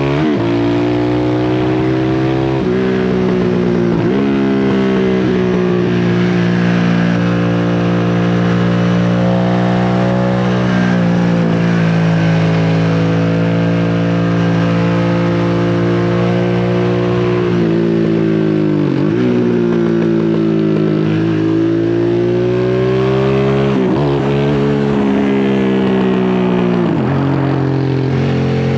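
Harley-Davidson Sportster S's 1250 cc V-twin running through a custom slip-on exhaust, ridden at low rpm. The engine note holds steady for long stretches, and its pitch drops sharply and climbs back several times as the throttle is rolled off and on.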